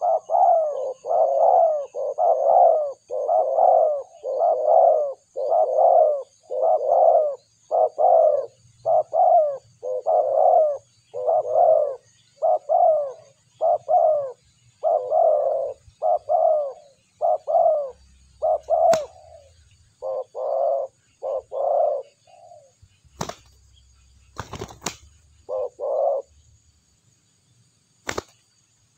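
A dove cooing: a long, steady series of short coos, about one and a half a second, that thins out after about eighteen seconds and stops a few seconds before the end. A few sharp clicks or knocks come in the later part.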